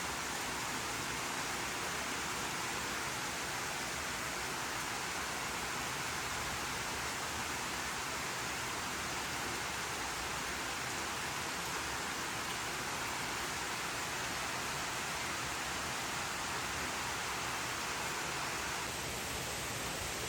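Steady rainfall, an even hiss of rain with no single drops standing out, easing slightly near the end.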